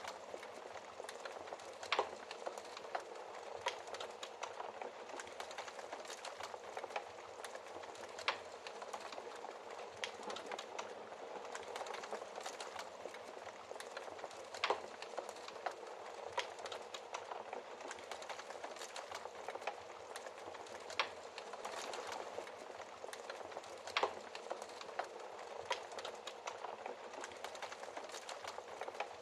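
Wood fire burning in a fireplace: a steady soft hiss of flames with frequent small crackles and occasional sharper pops, the loudest about 2, 8, 15, 21 and 24 seconds in.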